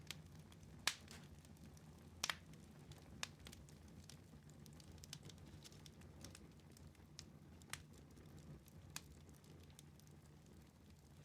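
Wood fire in a fireplace crackling faintly, with scattered sharp pops over a low rumble. The loudest pop is about a second in, and a double pop follows a little after two seconds.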